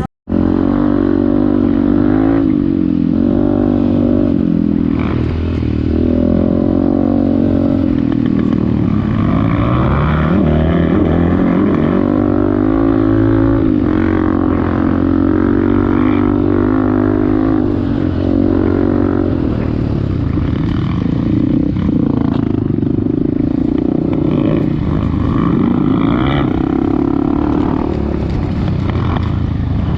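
Off-road motorcycle engine running continuously under load, its pitch rising and falling again and again as the throttle opens and closes. The sound cuts out for a moment right at the start.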